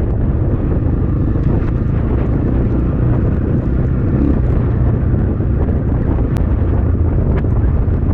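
Strong wind buffeting the ride camera's microphone over a Templar X 250 dirt bike engine running steadily while riding.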